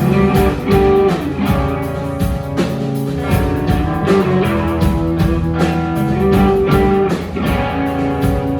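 A live rock band playing an instrumental passage: guitars holding and strumming chords over a steady drum beat.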